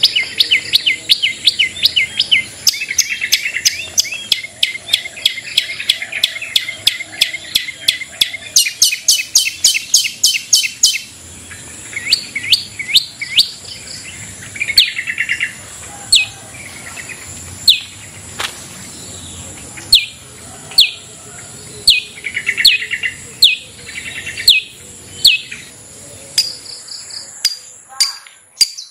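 Long-tailed shrike (cendet) singing. For the first half it gives dense, fast chattering runs of sharp high notes, then switches to single sharp notes about a second apart, with occasional short chatters. A steady high-pitched tone runs underneath throughout.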